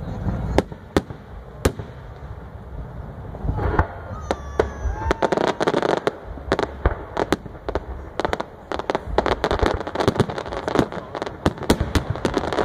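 Aerial fireworks display: a few separate sharp bangs of shells bursting in the first two seconds, then from about four seconds in a dense run of rapid crackling reports.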